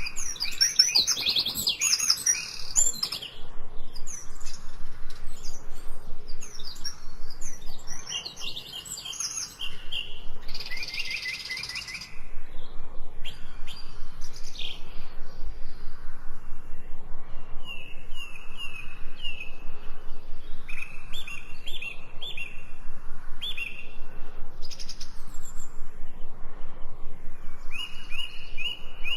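Several birds chirping and singing, with many short, varied calls and trills overlapping. From about twelve seconds in there is also a fast, even pulsing, several beats a second.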